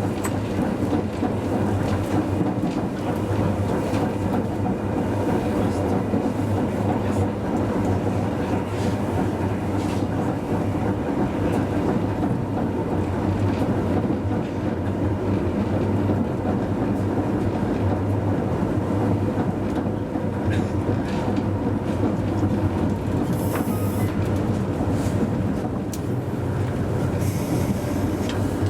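Hakodate city tram car 530 running along the line, heard from the driver's cab: a steady low motor and gear hum with the wheels rolling on the rails. Two short hisses come near the end.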